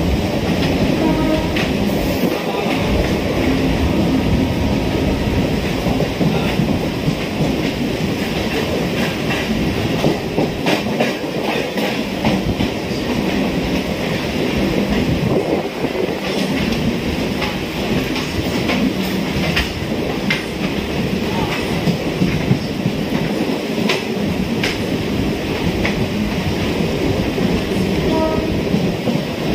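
Suburban electric commuter train running along the track: a steady rumble with the wheels clattering over the rail joints in frequent sharp clicks.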